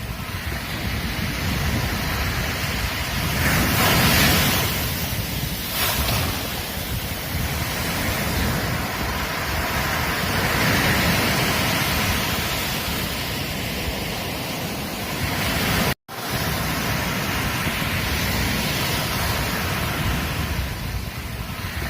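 Ocean surf washing onto a beach: a steady rush of waves that swells louder about four seconds in and again around eleven seconds. The sound cuts out for a split second about two-thirds of the way through.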